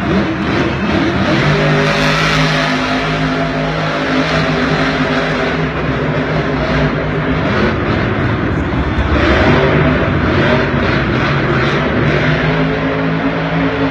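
Monster truck engine running loud and steady, revving up near the start and again about nine seconds in.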